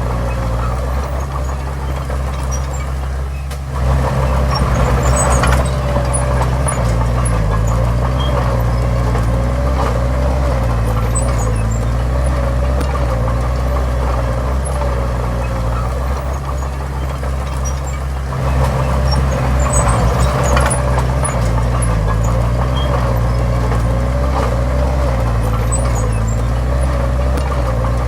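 Heavy diesel earthmoving machinery running steadily, with a wavering whine over the engine. The engine works harder twice, about four seconds in and again past halfway, each time for a few seconds, as it takes on load.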